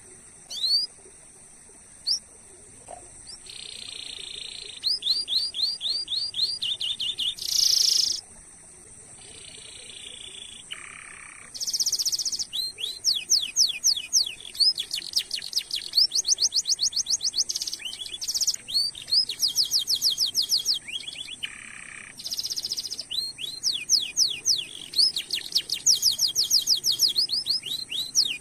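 Domestic canary singing: a few single chirps, then long rolling tours of rapidly repeated falling notes broken up by short buzzy, rattling phrases, with a brief pause about two-thirds of the way through.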